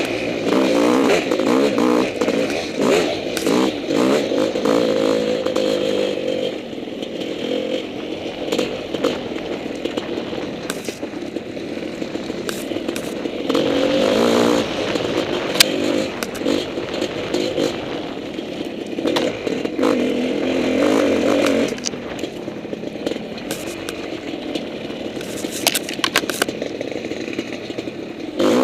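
Honda CR500 dirt bike's 500 cc single-cylinder two-stroke engine on a trail ride. It is revved hard in bursts for the first six seconds, again at about 14 seconds and from about 19 to 22 seconds, and eases off in between. Short clattering knocks run throughout.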